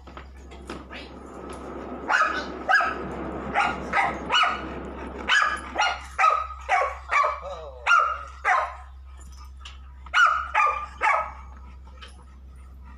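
Dog barking over and over, a quick run of sharp barks from about two seconds in, a short pause, then three more near the end.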